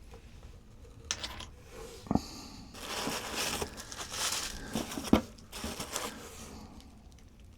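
Packing material crinkling and rustling as rocks are handled and unwrapped, with two sharp knocks, about two seconds and five seconds in, of a rock being set down.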